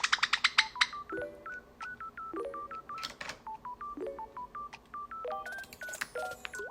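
Java sparrow calling in short, sharp, high chirps: a fast run of notes that ends about a second in, then sparser single chirps.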